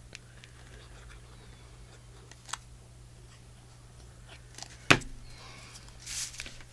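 Paper being handled on a craft table: a small click, then one sharp tap or click near the middle, and a brief rustle of paper being slid into place near the end, over a faint steady hum.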